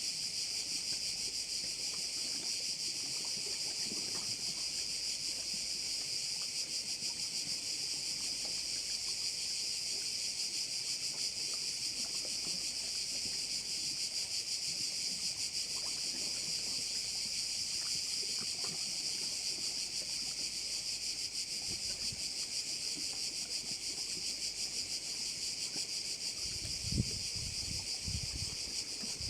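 Dense, unbroken chorus of crickets: a steady high-pitched shrill with no pauses. A few low rumbles and a short bump come near the end.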